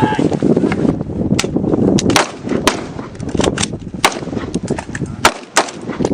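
Gunfire sounds for a toy gun: a rapid, dense run of shots that thins out into single sharp cracks a fraction of a second to a second apart near the end.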